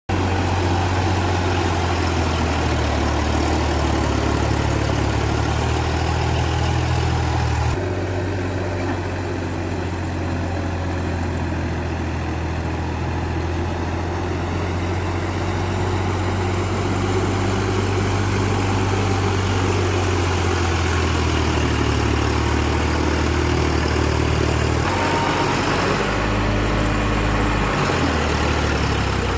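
Tractor engine running steadily with a low drone, which changes pitch abruptly a few times.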